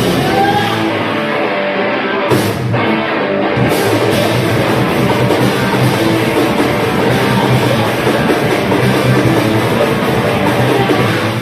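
Loud metal band playing live, with distorted electric guitars, bass and a full drum kit.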